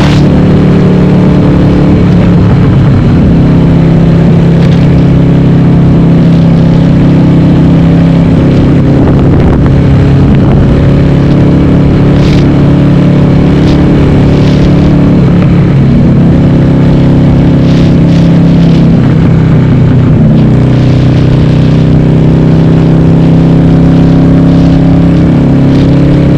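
Harley-Davidson Sportster's 1200 V-twin running loud through Cobra Speedster 909 exhaust with the dB killers removed, on the move. The engine note holds steady, then dips and changes pitch with throttle partway through, and settles to a steady pitch again near the end.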